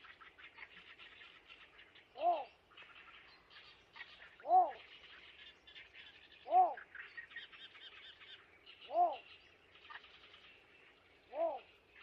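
Birds calling: a short, low call that rises and falls in pitch, repeated five times about every two seconds, over a continuous faint, high chittering.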